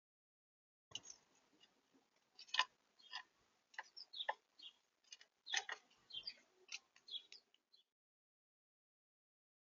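Small bird feeding on the feeder close to the microphone: irregular sharp taps and clicks of pecking at seed, with a few short high chirps. The sounds start about a second in and stop near the end.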